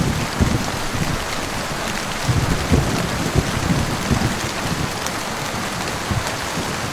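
Heavy rain falling steadily, a dense even hiss of drops on a surface, with brief low rumbles swelling now and then in the bass.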